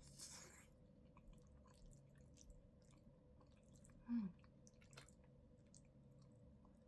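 Near silence with faint small clicks and soft, wet, chewing-like sounds, a short hiss at the very start and a brief low falling hum about four seconds in.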